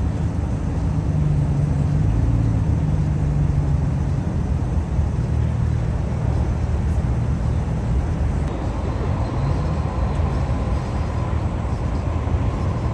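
Car engines idling, a steady low rumble, with a faint high whine joining in the last few seconds.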